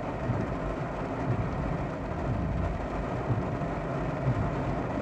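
Heavy rain pouring on a car's roof and windshield, heard from inside the cabin as a steady rush with a low rumble underneath.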